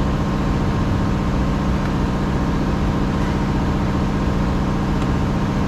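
A steady low mechanical drone, like an idling engine, with a few faint clicks, one near the end.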